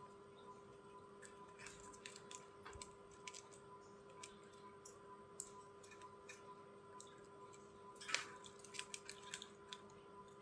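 Budgies pecking and chewing, faint irregular clicks and crunches over a steady electrical hum, with a louder cluster of clicks about eight seconds in.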